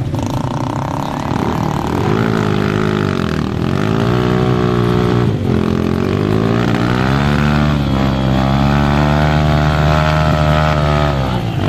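Dirt bike engine revving hard, its pitch rising and falling several times, then held high for a few seconds before dropping near the end.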